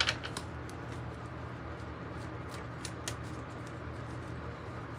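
Quiet room tone with a steady low hum and a few faint, short clicks of tarot cards being handled.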